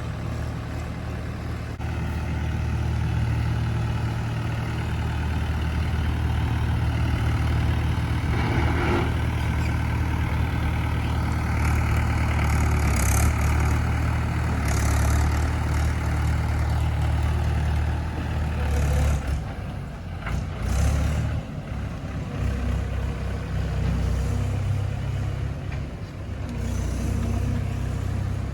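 JCB 3DX backhoe loader's diesel engine running steadily under working load, its note picking up about two seconds in. A few short, sharp sounds come in the second half.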